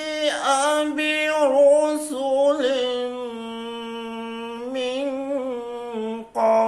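A single voice reciting the Quran in a slow melodic chant, drawing out long notes that glide between pitches, with one note held steady for nearly two seconds in the middle.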